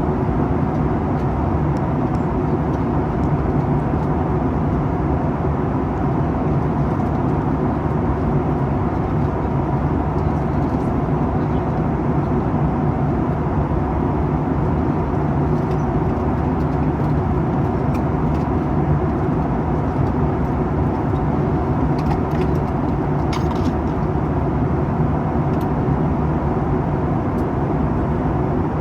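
Steady cabin noise of a Boeing 737-800 in flight: the drone of its CFM56 engines and the rush of air past the fuselage, heard from a window seat beside the engine.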